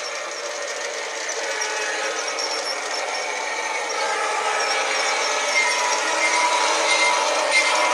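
G scale model train running on the track: a steady motor whine and wheel rumble that grows gradually louder as the train comes closer.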